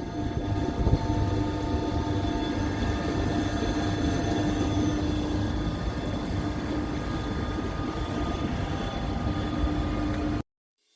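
Steady machinery running with a constant hum and rumble, cutting off suddenly near the end.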